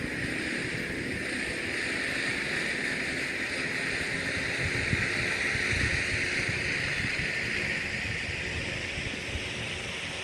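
Battery-powered electric motor and propeller of a homemade RC Cessna model airplane in flight: a high buzz that swells through the middle and eases off near the end as the plane passes. Wind buffets the microphone throughout.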